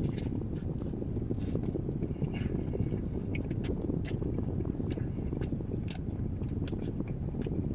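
Steady low rumble of car A/C air blowing onto the microphone, with scattered wet clicks and smacks of someone chewing a sandwich.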